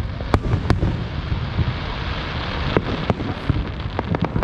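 Fireworks going off: sharp bangs, two close together near the start and two more about three seconds in, over a steady hiss, then a quick run of crackling pops near the end.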